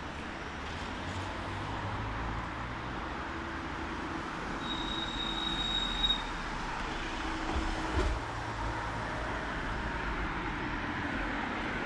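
Street traffic passing on wet roads in the rain, a steady hiss of tyres and rain over a low rumble of engines. About five seconds in, a brief high-pitched squeal sounds for a second or two, likely brakes or wheels.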